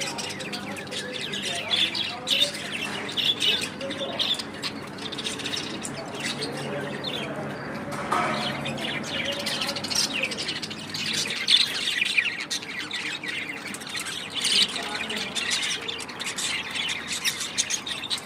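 Budgerigars chirping, warbling and squawking without pause, a busy chatter of short sharp notes.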